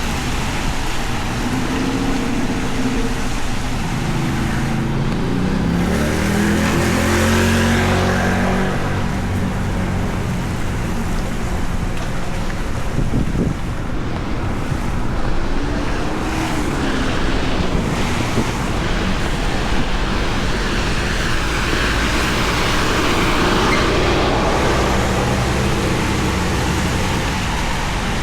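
Steady hiss of heavy rain on a city street, with cars driving past on the wet road; their tyre noise and engine hum swell up twice, about a quarter of the way in and again near the end.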